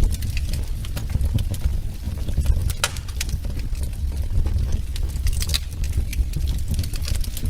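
Wood fire crackling in a fireplace: irregular sharp pops and snaps over a steady low rumble, with a louder snap about three seconds in and another about five and a half seconds in.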